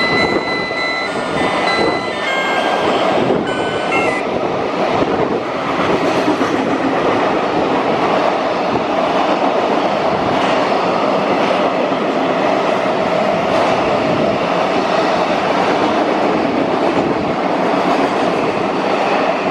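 Container wagons of a freight train rolling through at speed: a steady loud rumble of wheels on rail with repeated clacks over the rail joints. A short electronic melody plays over it for the first few seconds and stops suddenly about four seconds in.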